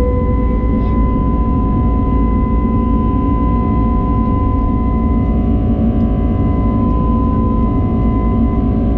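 Airbus A320neo cabin noise in flight: the engines give a steady loud rumble with several constant whining tones over it.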